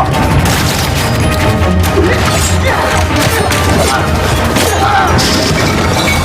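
Dramatic action score mixed with a rapid series of hits and crashes from a fight scene.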